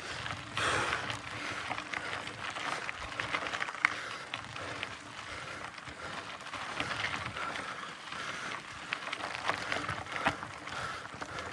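Mountain bike climbing a rocky trail: tyres crunching over gravel and stones, with scattered clicks and knocks from the bike.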